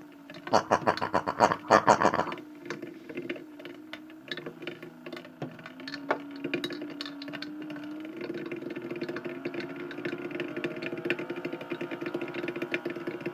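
Washing machine running: a steady motor hum that rises a little in pitch a few seconds in, with a fast patter of small clicks over it. The first two seconds hold several loud, noisy bursts.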